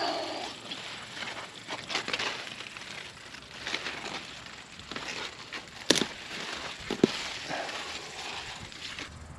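Rustling and crackling of leaves and stems being handled, with two sharp snaps about six and seven seconds in.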